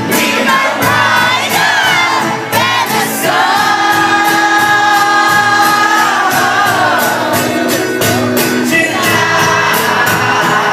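Live pop band playing, with sung vocals over a steady drum beat and one long held note in the middle.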